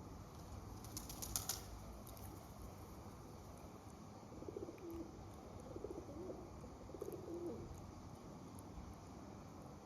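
A pigeon or dove cooing, three low phrases in a row midway through, over a steady outdoor background hiss. A quick rattle of sharp clicks about a second in.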